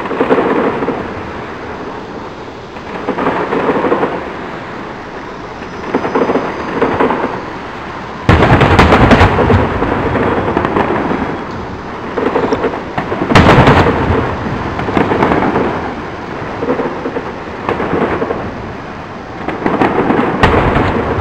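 Fireworks bursting: a run of booms, each trailing off in a rumble, with the two sharpest and loudest bangs about eight and thirteen seconds in.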